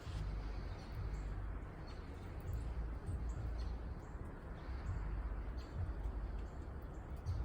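Small birds making short, high chirps every second or so, over a steady low rumble.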